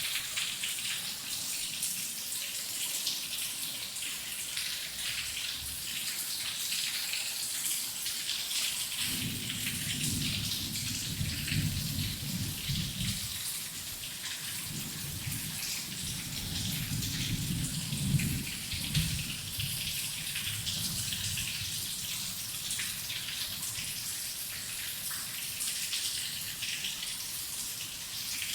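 Heavy rain falling steadily, a dense crackling patter of drops, with a low rumble of thunder rolling in two swells from about nine seconds in until about twenty seconds in.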